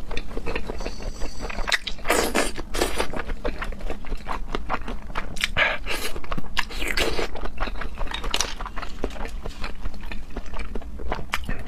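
Close-miked eating sounds of someone chewing raw seafood: wet chewing and smacking with many irregular sharp clicks.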